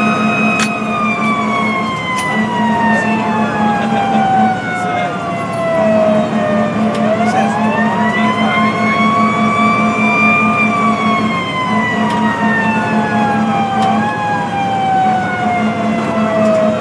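Fire engine siren wailing in long slow sweeps: held high at first, falling for several seconds, rising again about halfway through, then falling slowly once more.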